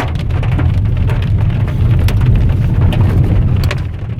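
Pebble-sized hailstones pelting a car, heard from inside the cabin as a dense, irregular patter of sharp ticks over the steady low rumble of the car driving.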